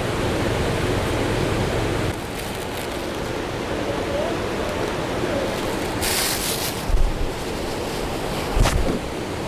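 Steady rushing of wind and water, with wind buffeting the microphone: a brief sharp hiss about six seconds in and low thumps twice near the end.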